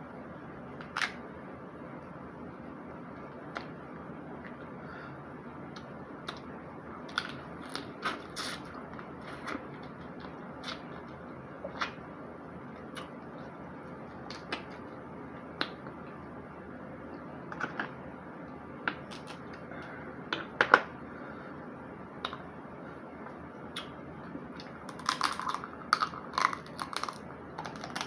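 Snow crab shell being cracked and broken apart by hand: scattered sharp cracks and snaps every second or two, with a quick run of them near the end, over a steady low background hiss.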